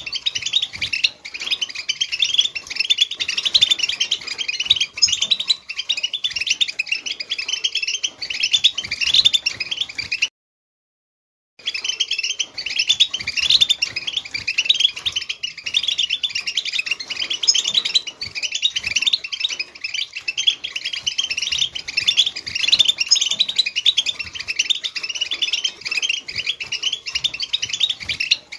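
European goldfinch chattering song, a fast unbroken run of high twittering notes, of the kind played to stir a silent caged goldfinch into singing. The sound cuts out completely for about a second roughly ten seconds in, then resumes.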